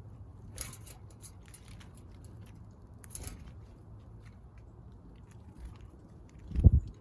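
Small backyard birds pecking and crunching at seed, with scattered light taps and brief rustles. A loud low thump comes near the end.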